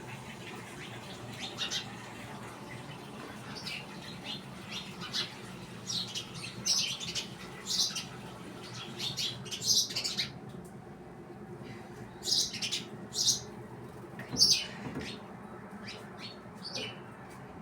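Birds chirping: many short, sharp calls in quick clusters throughout, over a steady low hum.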